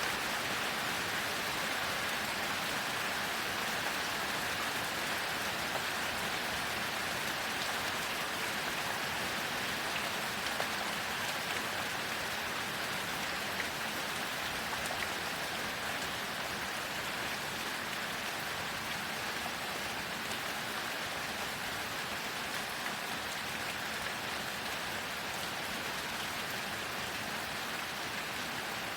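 Heavy rain falling steadily: an even hiss with scattered individual drop ticks.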